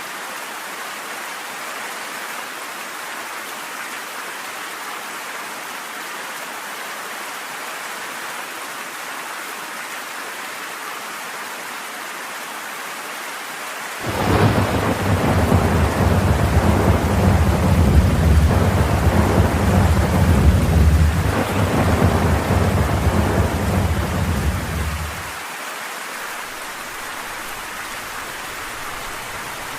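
Steady rain falling, with a long rumble of thunder that breaks in suddenly about halfway through, rolls on for about ten seconds and dies away, leaving the rain alone.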